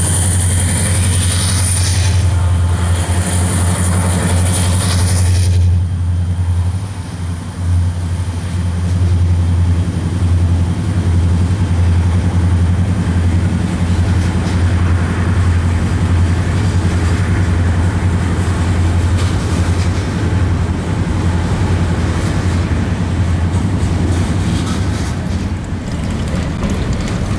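Pan Am freight train led by diesel-electric locomotives 600 and 380 working under throttle as they pass beneath. A steady low engine drone carries a high whine that cuts off about six seconds in, then freight cars roll by under the continuing drone.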